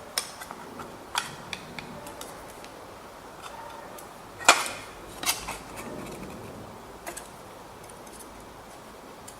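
Metal marking-out tools such as a steel rule, T-square and scriber clinking and tapping against sheet metal on the bench: a handful of scattered sharp clicks, the loudest about four and a half seconds in.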